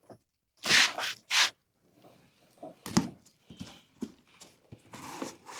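Cardboard parts box being opened by hand: three loud scraping rubs of cardboard, then softer knocks and rustling as the box and its contents are handled.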